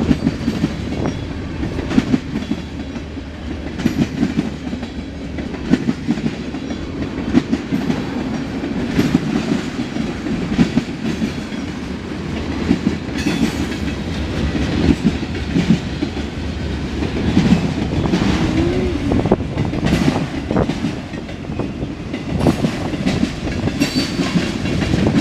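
Freight cars of a CSX mixed freight train rolling past, with a steady rumble and irregular clacks of wheels over rail joints.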